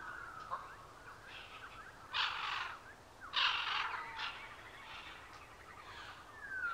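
Birds calling: several thin, falling whistled calls, and two louder, harsh calls about two and three and a half seconds in.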